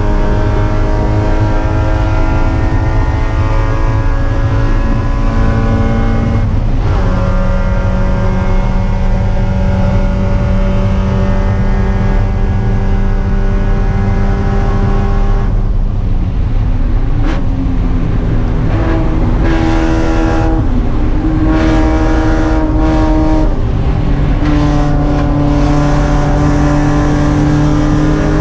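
Spec Miata's four-cylinder engine racing at full throttle, with an upshift about six and a half seconds in and a steady pull after it. About halfway it comes off the throttle and the note steps through several downshifts, then it accelerates again, rising in pitch, near the end.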